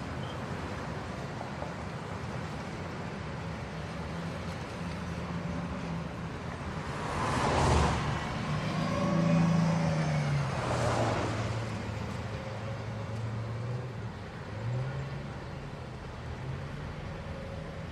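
A car drives past, its engine and tyres loudest about eight to eleven seconds in, with its engine hum fading out a few seconds later, over steady wind noise from riding a bicycle.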